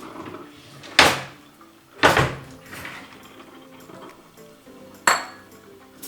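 A serving spoon knocking against a cooking pot or plate three times, about a second, two seconds and five seconds in, each a sharp knock that dies away quickly. Faint background music runs underneath.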